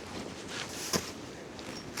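A snow shovel working snow, one scrape ending in a sharp knock about a second in, over steady wind noise on the microphone.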